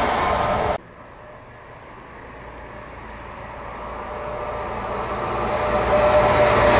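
Loud passing-train noise cuts off abruptly under a second in. Then a CrossCountry HST (InterCity 125) approaches, its diesel power car and wheels rising steadily in loudness as it nears.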